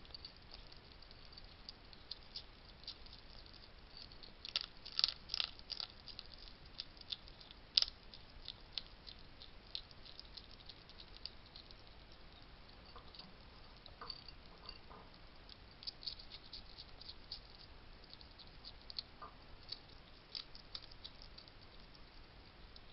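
Wild hedgehog eating at a feeding station: a run of small, crisp crunching clicks as it chews food, busiest and loudest about five seconds in, then scattered.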